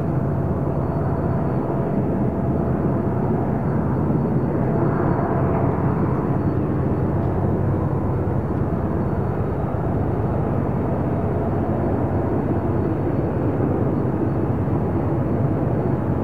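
Diesel locomotives of a Union Pacific freight train running with a steady, heavy rumble.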